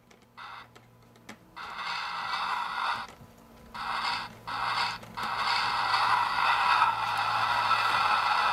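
HO-scale Rapido steam heater car's onboard sound playing its steam generator effect through the model's small speaker: a rushing noise over a faint low hum. It cuts in and out at first while the car is set down on the rails, then runs steadily from about five seconds in.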